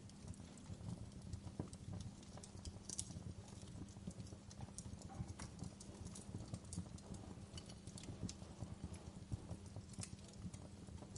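Wood fire in a fireplace crackling: irregular sharp pops and snaps over a low, steady rumble of the burning fire.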